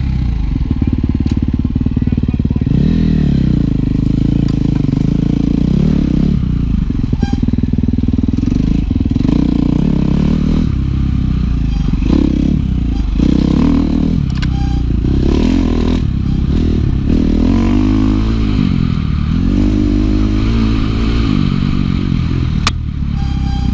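Dirt bike engine running hard as it is ridden, its pitch rising and falling over and over as the throttle is opened and closed.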